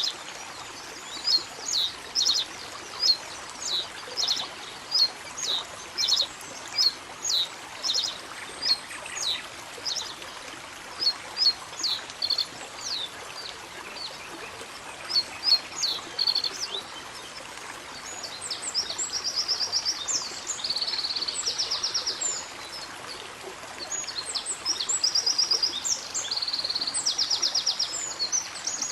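Songbirds calling over a steady hiss of running water: many short, high, downslurred notes repeated about once or twice a second, giving way after the middle to fast, buzzy high trills.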